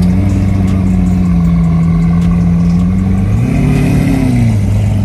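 Car engine idling steadily, then revved once about three seconds in, the pitch rising and falling back to idle within about a second.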